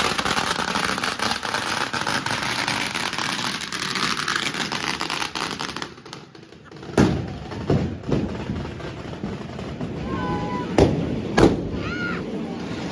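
Firecrackers crackling rapidly for about six seconds, then a handful of separate sharp bangs from thrown bangers.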